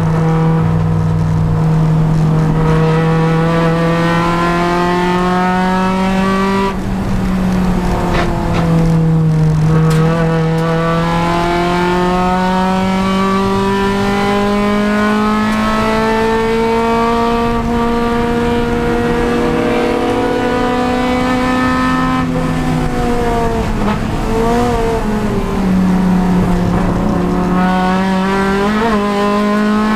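Honda Civic Si race car's four-cylinder engine running hard under racing load, its pitch climbing through the revs and falling back at gear changes about a quarter of the way in and near the end. About three-quarters of the way through the pitch wavers up and down quickly, as on downshifting under braking.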